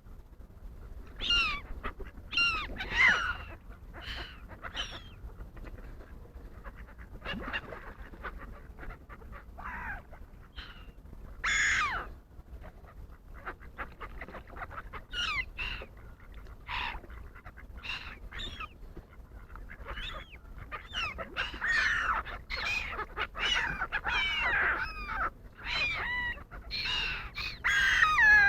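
Wild birds calling: many short separate calls, some sliding in pitch, coming faster and overlapping in the last third.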